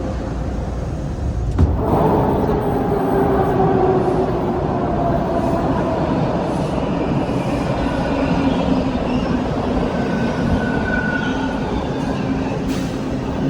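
TTC Line 2 subway train in a station, its motor whine sliding down in pitch over several seconds over the rumble of the wheels on the rails. A sudden cut about two seconds in, from one train sound to a louder one.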